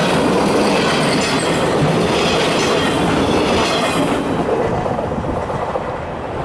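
Freight train of empty flatcars rolling past at speed, steel wheels running over the rails. The last car clears about four seconds in, and the sound thins to a fading rumble as the train moves away.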